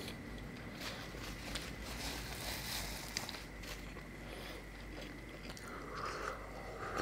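A man chewing a mouthful of soft, wet food, with small sharp mouth clicks throughout; near the end, a sip from a small cup.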